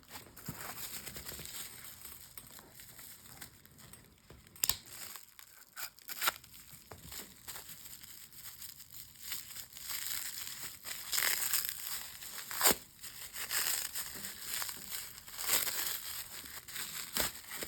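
Packing material crinkling and tearing as a parcel is unwrapped by hand, with a few sharp snaps along the way.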